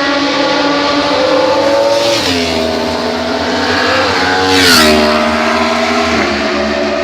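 Superbike engine accelerating through the gears: its pitch climbs steadily, then drops sharply at each upshift, about two seconds in, near five seconds and again a second later. A short hissing rush comes just before the second shift.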